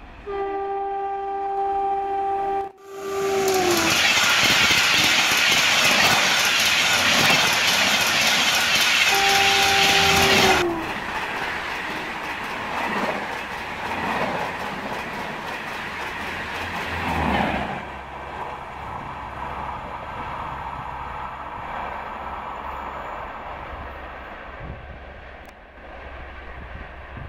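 Electric locomotive's two-tone horn sounding twice, each blast dropping in pitch at its end, with the loud rush of a high-speed passenger train passing close by. Then the wheels clatter rhythmically over the rail joints as the coaches go by, before fading to a quieter, steady rumble of an approaching train.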